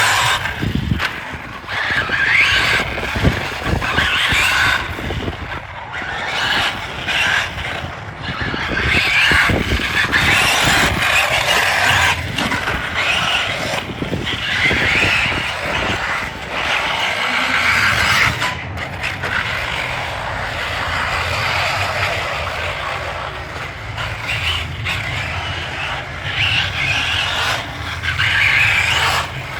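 Radio-controlled car driving, its electric motor and drivetrain whining in swells that rise and fall every couple of seconds with the throttle, with tyres skidding and scrabbling.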